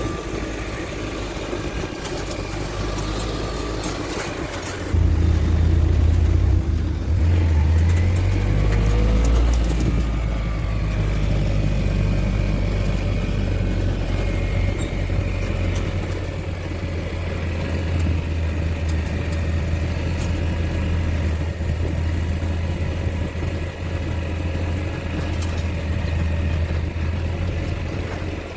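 A motor vehicle running steadily, with engine and road rumble that gets louder about five seconds in.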